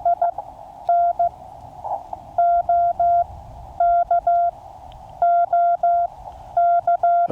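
Morse code (CW) from a QRP Labs QCX mini transceiver. A single steady tone is keyed into dots and dashes over faint band hiss.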